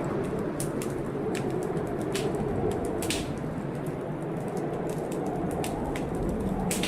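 Wood fire crackling, with irregular sharp pops and snaps, over a steady low rumble of storm noise.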